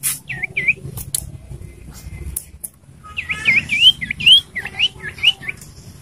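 Common iora calling: two short swooping whistles, then after a pause a quick run of about ten rising whistled notes. A few sharp clicks fall between them.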